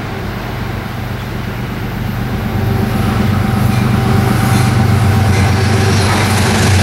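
Approaching train: a steady low drone that grows louder from about two seconds in.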